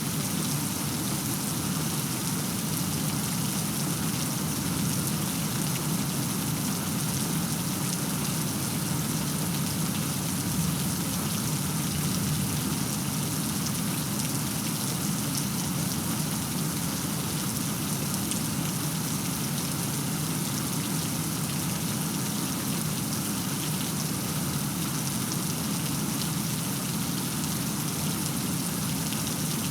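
Steady heavy rain falling, an even hiss with a low rumbling bed and many small drop impacts.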